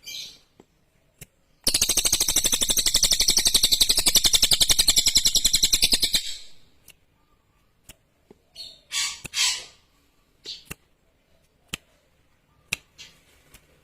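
Cililin songbird singing a loud, very rapid trill lasting about four and a half seconds, then a few short high chirps.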